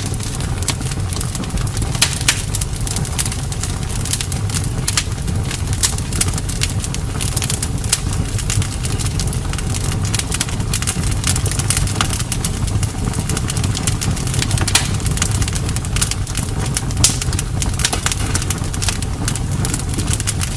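Bonfire burning: wood crackling with frequent sharp, irregular pops over a steady low rumble of the flames.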